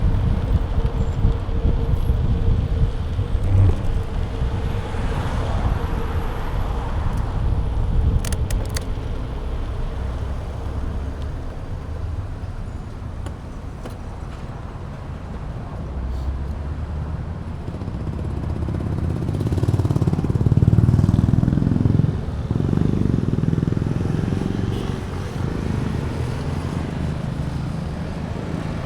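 Wind noise rumbling on a bike-mounted action camera's microphone during a ride, with vehicle noise; it swells about two-thirds of the way through, then drops off suddenly.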